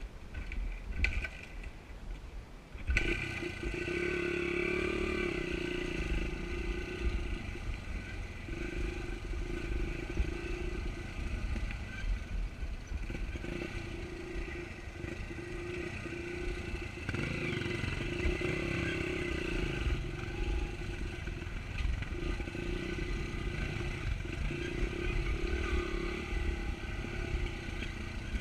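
Pit bike engine running while riding, its pitch rising and falling a little, over a heavy low rumble of wind on the microphone. The engine comes in about three seconds in.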